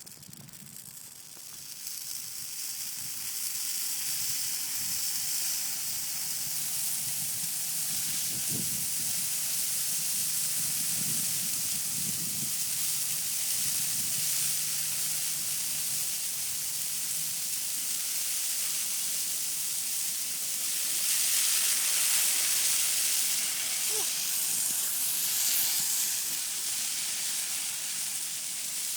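Christmas tree burning in a bonfire, its needles flaring with a steady hissing crackle. It builds over the first few seconds and grows louder a little past two-thirds of the way through.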